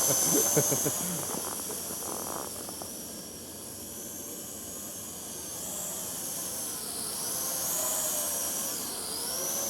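A motor running steadily, its faint high whine wavering up and down in pitch.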